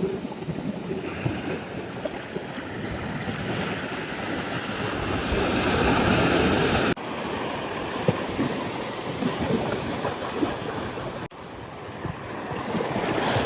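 Ocean surf washing onto the beach, with wind rumbling on the microphone. The wash swells up, breaks off abruptly about seven seconds in, and breaks off again near eleven seconds.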